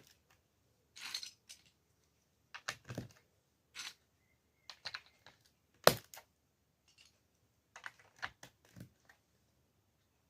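Plastic Lego bricks being handled and pressed together: scattered light clicks and rustles, with one sharp snap about six seconds in.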